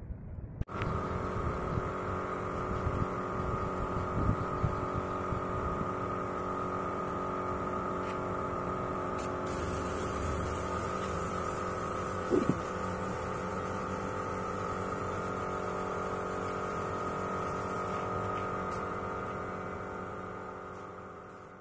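Homemade grass chopper machine running steadily with a constant hum, starting abruptly just under a second in and fading away near the end.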